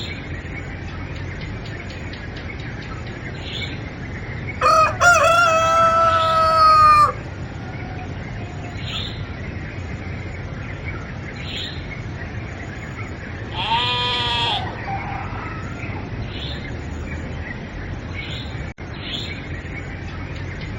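A rooster crows: one long, loud crow about five seconds in, then a second, shorter call around fourteen seconds. A faint high chirp repeats every two to three seconds over a steady background hum.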